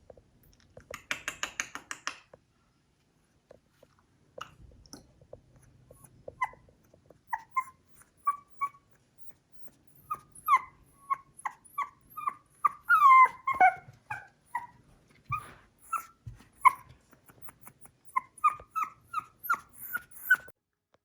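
Shih Tzu puppy whimpering and yipping in short, high cries, some falling in pitch, in quick runs from about six seconds in. A brief scratchy burst comes about a second in.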